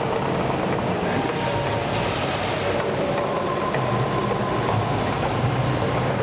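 Steady rumbling roar of the Mirage's artificial volcano eruption show, dense and unbroken, with a few faint held tones under it.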